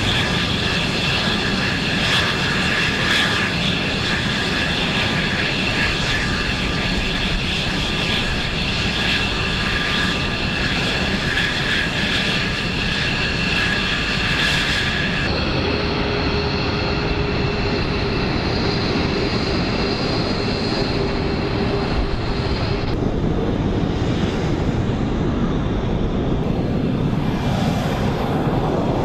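Fighter jet engines running, a steady roar with a high whine over it; the sound changes abruptly just past halfway and again about two-thirds of the way through, where the whine drops away.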